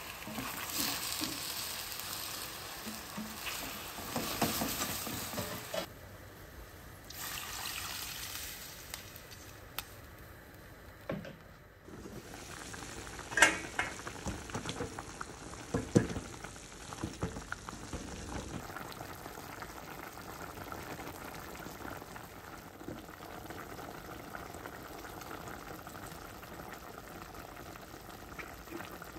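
Chicken wings sizzling in a stainless-steel pot as they are stirred with chopsticks, with a few sharp knocks between about 11 and 17 seconds in. The wings also bubble as they simmer in a broth.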